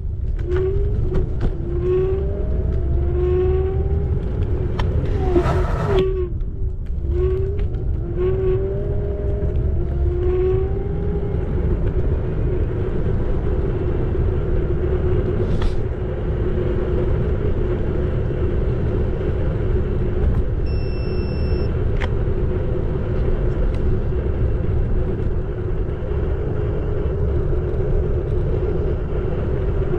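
Xiaomi Electric Scooter 4 Pro riding with a steady low rumble under its electric motor whine. The whine rises in short repeated glides for the first ten seconds or so, then holds at an even pitch. A brief high tone sounds about twenty seconds in.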